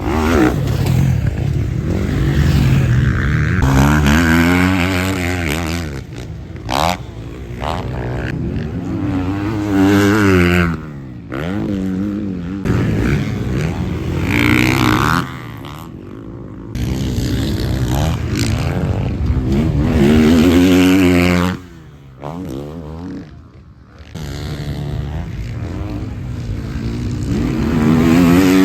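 Motocross bike engines revving hard and dropping off, pitch sweeping up and down again and again, with the sound jumping abruptly between different bikes several times.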